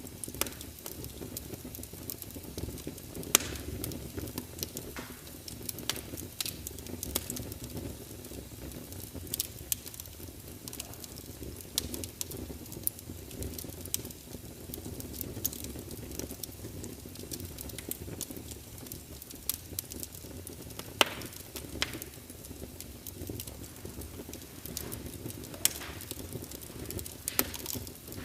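Wood fire burning in a fireplace: a steady low rumble and hiss of the flames with irregular sharp crackles and pops of the burning wood, a few louder ones standing out.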